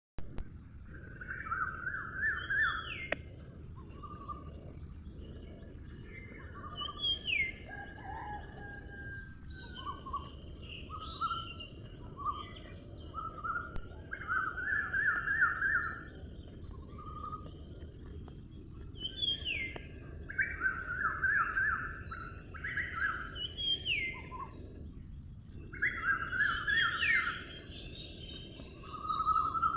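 Birds chirping and calling over and over, with quick trilled phrases and short high whistles that rise and then fall, over a steady high-pitched hiss.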